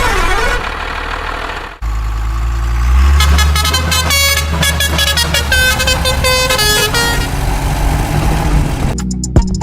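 Heavy diesel engine running with a steady low drone, over which a horn sounds several times at changing pitches. The sound cuts abruptly about two seconds in, and music with drum hits takes over near the end.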